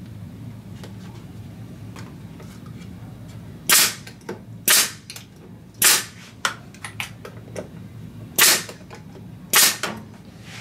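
Nails being driven into the wooden birdhouse: five loud, sharp shots spaced about a second apart, in two groups, with fainter clicks and knocks between them.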